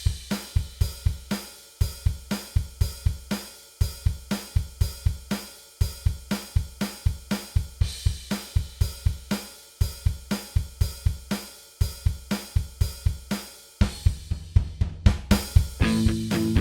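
Rock drum kit playing a steady beat: bass drum, snare and cymbals at about four hits a second, in phrases that repeat every two seconds, with a drum fill near the end. Sustained instrument notes come in just before the end.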